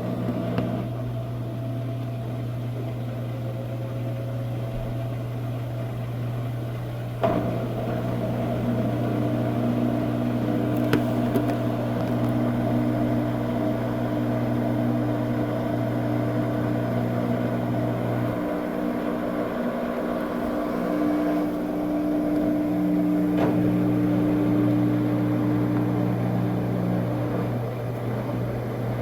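Coin-operated washing machine spinning its drum at speed, a steady motor hum and whine with several steady tones. About seven seconds in there is a click, and the spin gets louder, with higher tones joining.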